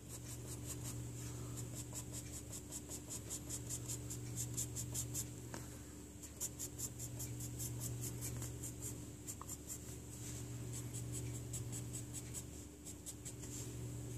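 Drawing strokes scratching on paper as lines are darkened, in runs of quick short strokes about five a second with brief pauses. A steady low hum runs underneath.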